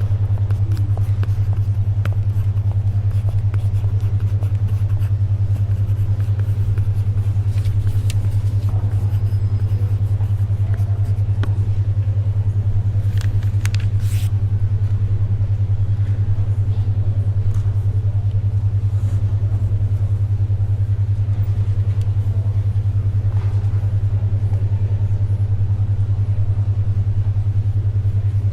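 Steady low hum of a 10.2 Hz alpha brainwave tone with a fine, even pulsing. Behind it is soft library ambience with occasional faint paper rustles and pencil scratches, a few clustered about halfway through.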